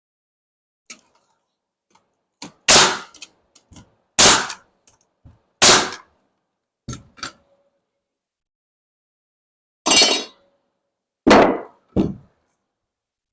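Hammer strikes on wood wall framing: three loud blows about a second and a half apart, a couple of lighter taps, a pause of a few seconds, then three more blows, one with a short metallic ring.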